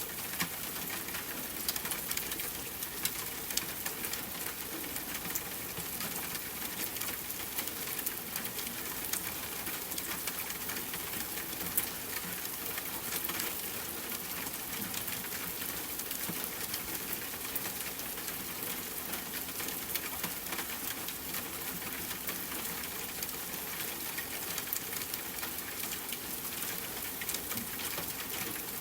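Rain pattering steadily on a tent with a campfire crackling: an even hiss dotted with frequent small sharp pops, one louder pop about twelve seconds in.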